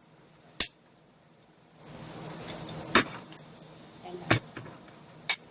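Annatto seeds popping and spattering in hot cooking oil in a pot: four sharp pops scattered across a few seconds, with a short burst of sizzling in the middle.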